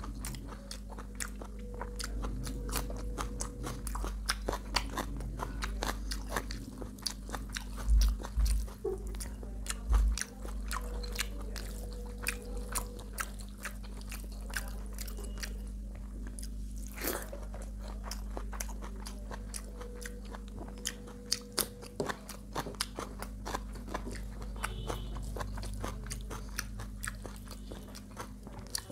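Close-miked chewing and mouth sounds of someone eating rice and curry: many small wet clicks and smacks with some crunching, over a steady low hum. Two heavier low thumps come about a third of the way in.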